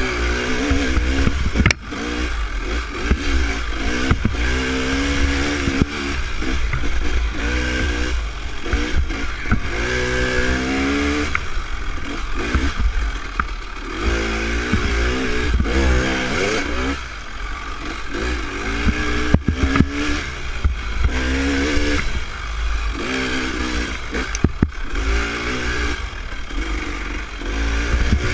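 Dirt bike engine heard from on board, revving up and easing off again and again every couple of seconds while riding a trail, over a steady low rumble, with occasional clattering knocks.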